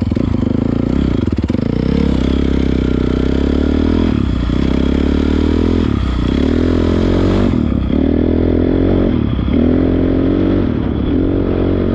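Honda CRF450R's single-cylinder four-stroke engine running under way, its note dipping briefly and recovering about every one and a half to two seconds.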